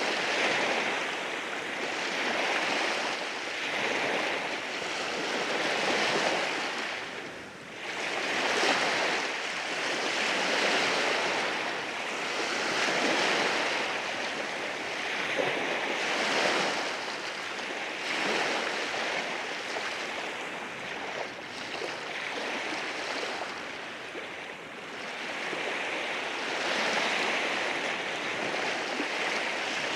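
Sea waves breaking and washing over rocks on a rocky shore, a continuous surf rush that swells and eases every few seconds, with a brief lull about seven seconds in.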